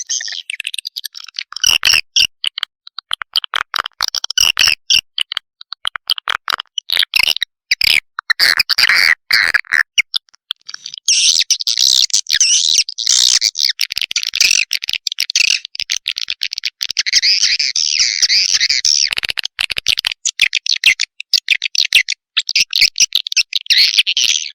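Swiftlet lure recording: dense, rapid high chirping and twittering of swiftlets mixed with chick calls, the kind of call played in swiftlet houses to draw a colony in to roost and nest. It thins briefly near the middle, then grows fuller.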